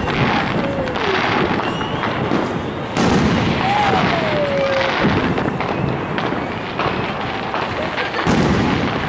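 Aerial firework shells bursting in a continuous display: several booms over steady noise, with a falling whistle about four seconds in.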